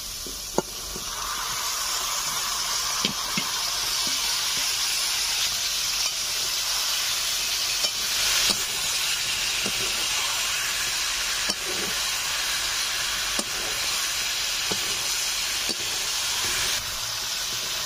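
Raw chicken pieces sizzling as they fry in the hot, oily spice masala in a metal karai, the sizzle swelling about a second in. A spatula scrapes and knocks against the pan now and then as the meat is stirred.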